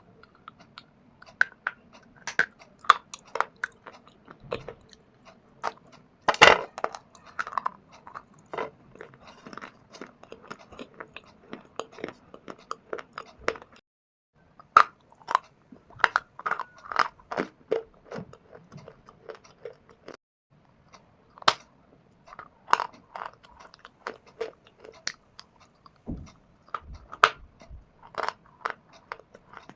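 A person biting and chewing dry pieces of shale stone and clay, a quick run of sharp, brittle crunches close to the microphone, with two short pauses partway through.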